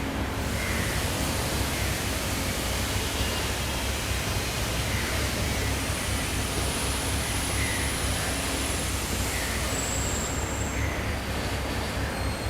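Car running on a chassis dynamometer: a steady, loud rushing noise with a deep rumble underneath, holding at an even level with no rise or fall in revs.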